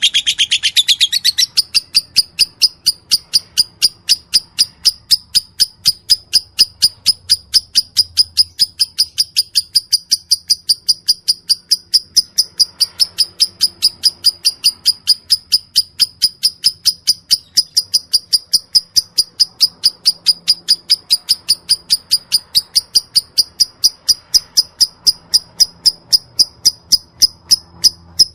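Lovebird chirping: a dense, rapid trill at the very start gives way about a second and a half in to a single high chirp repeated evenly, about four times a second.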